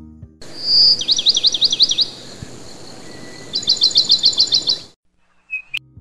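A songbird singing over a steady background hiss: a short high whistle, then about six quick downslurred notes, and after a pause a rapid trill of high notes. The song cuts off suddenly about five seconds in.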